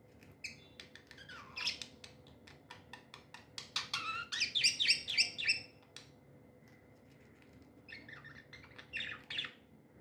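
Pet budgerigars chirping in quick runs of short high calls, loudest and thickest about four to five seconds in, then a pause and another run of chirps near the end.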